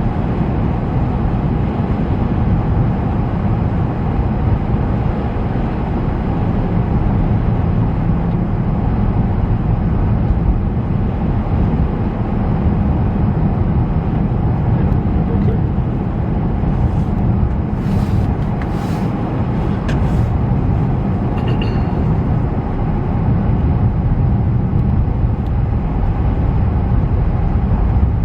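Steady low rumble of road and engine noise inside a moving car's cabin, driving on snow-covered roads. A few brief clicks come in about two-thirds of the way through.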